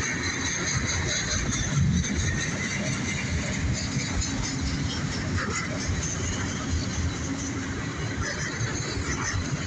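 Freight train cars rolling past at close range: a steady rumble and rattle of steel wheels on the rails, with faint high squeal above it.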